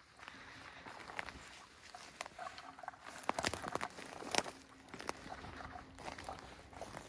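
Footsteps crunching slowly through dry leaves and brush, an irregular series of snaps and rustles that is busiest in the middle.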